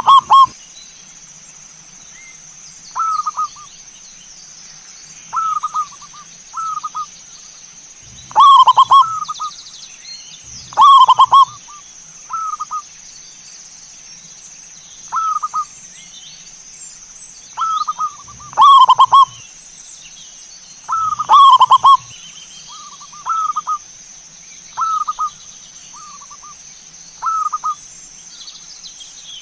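Zebra doves (perkutut) cooing: short, rolling, warbling phrases repeated every couple of seconds, some loud and close, others softer. A steady high-pitched hiss runs behind them.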